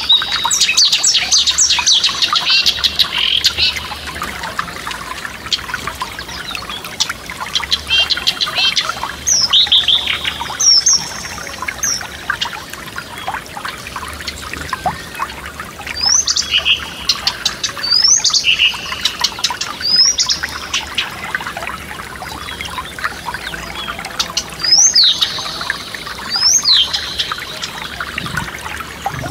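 Forest stream trickling steadily, with songbirds singing over it: a busy burst of song at the start, then short rising whistled calls repeated every second or two.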